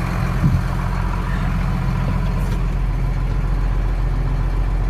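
Hino 268 dump truck's six-cylinder diesel engine idling steadily, heard from inside the cab.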